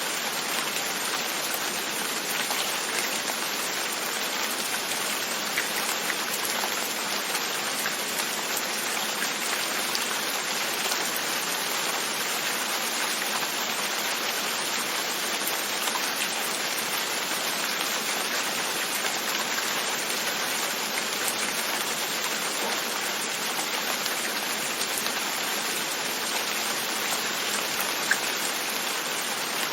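Steady rain falling, with a single drop ticking now and then.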